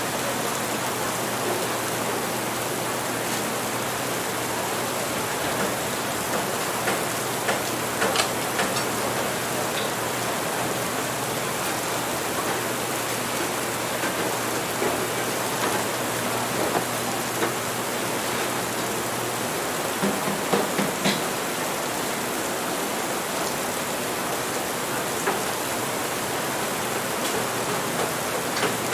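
Steady rain, an even hiss throughout, with a few light clicks and knocks now and then, the clearest about 8 and 21 seconds in.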